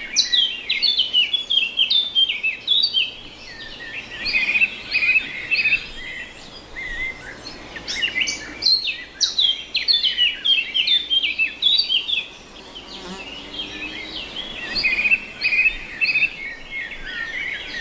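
Songbirds singing: many quick chirps and trills overlapping without pause. A brief low hum passes about thirteen seconds in.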